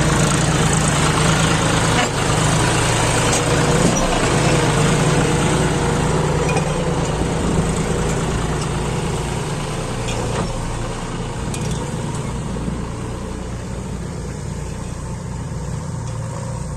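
John Deere 5105 tractor's three-cylinder diesel engine running steadily, hauling a loaded trolley, slowly getting quieter through the second half.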